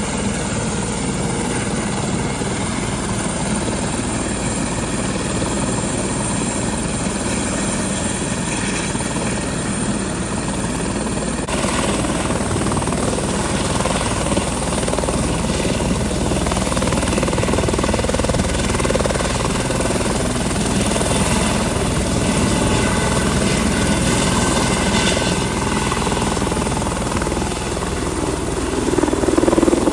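Air ambulance helicopter's turbine and rotor running, a loud steady noise with a sudden change in its sound about a third of the way in and growing louder near the end.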